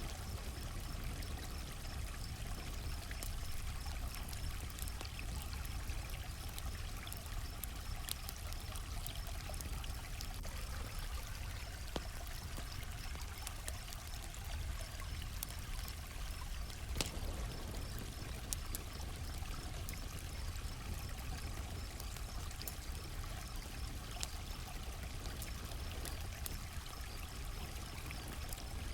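Campfire crackling, with scattered sharp pops over a steady low rumble, and one louder pop about two-thirds of the way through. Crickets chirp in a fast, even pulse throughout.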